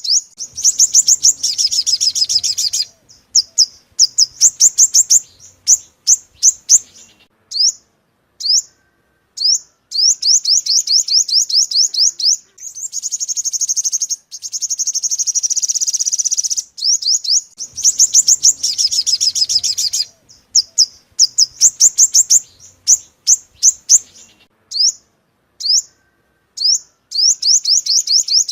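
Sunbird song from a lure recording: rapid high trills of short down-slurred notes in runs of a few seconds, separated by single sharp chirps and brief pauses.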